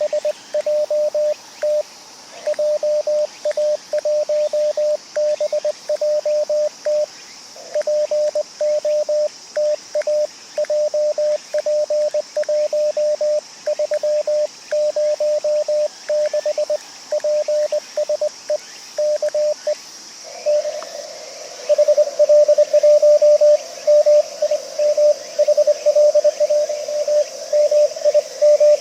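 Morse code (CW) from an amateur radio transceiver: a single tone of about 600 Hz keyed in rapid dots and dashes. For about the first twenty seconds the tone is clean. After that the keying continues louder, over a band of receiver hiss.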